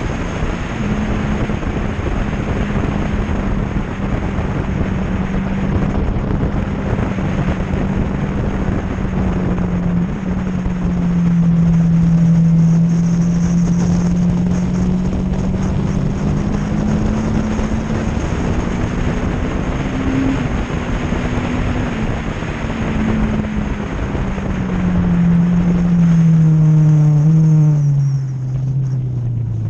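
Onboard sound of a sport motorcycle engine running hard at track speed, with wind rushing over the camera. The engine note holds fairly steady, sinks and climbs again, then drops in several steps near the end as the bike slows for a corner.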